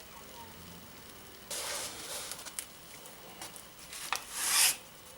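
Food sizzling in a hot pan: a hiss that starts suddenly about a second and a half in, with scattered crackles and a louder swell of sizzling near the end.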